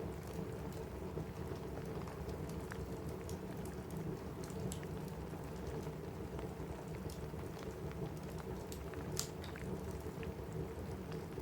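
Steady rain on a cabin roof with a fireplace crackling, scattered sharp crackles and pops over the even hiss of the rain, one louder pop about nine seconds in.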